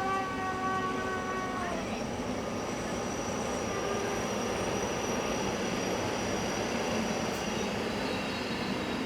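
Passenger train sounding its horn, one held chord that drops in pitch about a second and a half in as it passes. The wheels keep running on the rails with a thin high whine.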